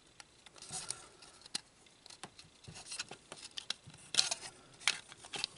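Plastic model-kit parts being handled and pushed into place by hand: scattered light clicks and brief rustling, with the sharpest clicks about four and five seconds in.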